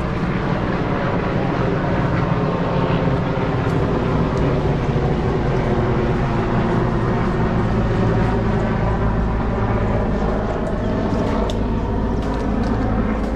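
An engine running steadily close by: a loud, even drone at a constant pitch. A few sharp clicks come near the end.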